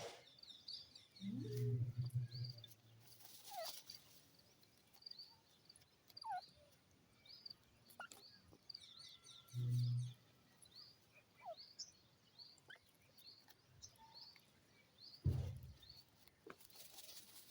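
Small birds chirping and twittering in short high notes throughout, with a few falling whistles. Three low bursts, each a second or less, stand out as the loudest sounds: one near the start, one about halfway and one near the end.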